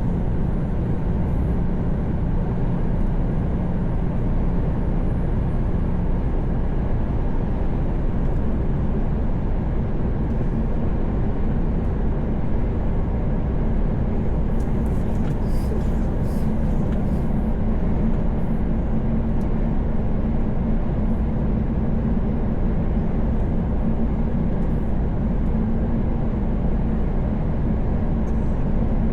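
Steady drone of a Mercedes-Benz Actros truck cruising on the motorway, heard from inside the cab: engine hum under even tyre and road noise. The engine note rises slightly in pitch about halfway through.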